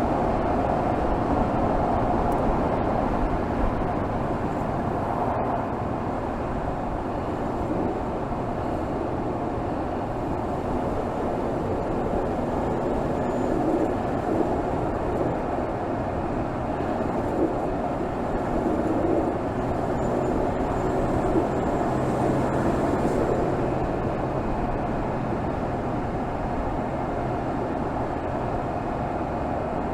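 Mercedes GLS 450's 3.0-litre turbocharged inline-six with EQ Boost mild hybrid running steadily at highway cruising speed, picked up under the hood, mixed with a steady rush of road and wind noise. A low steady hum comes up about twenty seconds in and fades a few seconds later.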